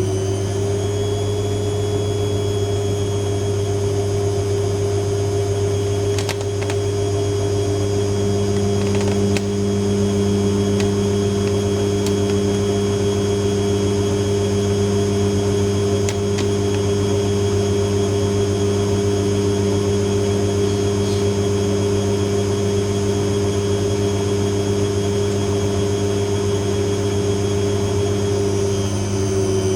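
AEG 7000 Series washing machine in its final high-speed spin: a steady motor whine over a low drum hum. The pitch rises to top speed in the first second, holds steady, then starts to fall near the end as the spin begins to wind down.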